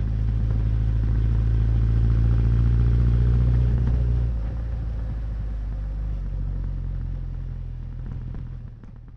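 Honda CB1100's air-cooled inline-four engine and exhaust running at a steady pace under way, easing off about four seconds in as the throttle is closed, then dying away near the end.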